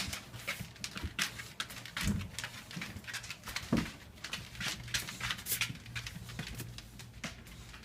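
English bulldogs moving about and snuffling while waiting to be fed: a run of irregular short clicks and scuffs over a low steady hum.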